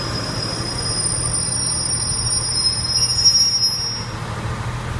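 Wheels of a four-wheeled Class 142 Pacer diesel railbus squealing on the rails in a steady high tone that fades out about four seconds in, over the low rumble of its diesel engines.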